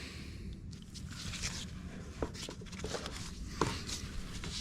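A few faint clicks and small knocks of hands working a plastic electrical plug on a tractor's fuel filter, over a low steady background rumble.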